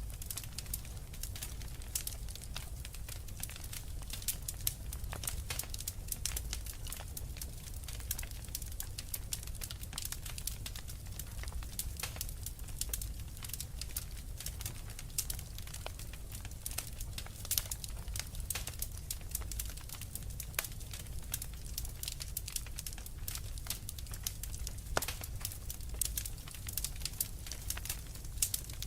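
Wood fire crackling in a fireplace: a low rumble with frequent small, irregular pops and snaps.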